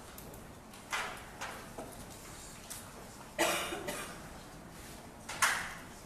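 Room sounds during a pause between talks: a cough about three and a half seconds in, among several short knocks and clicks, one more near the end.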